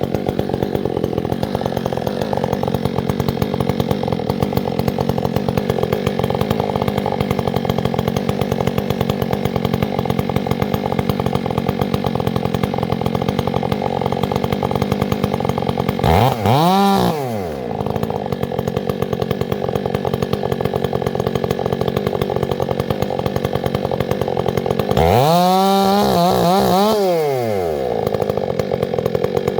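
Two-stroke chainsaw running steadily at a low speed, revved up and let back down twice: briefly about halfway through and for longer near the end.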